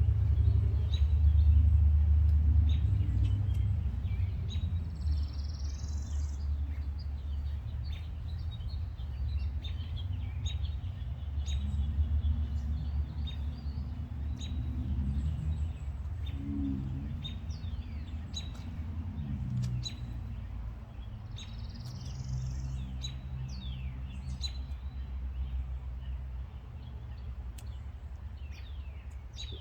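Birds chirping and calling outdoors, with many short chirps and a repeated rising call heard twice, over a low rumble that is loudest at the start and fades over the first several seconds.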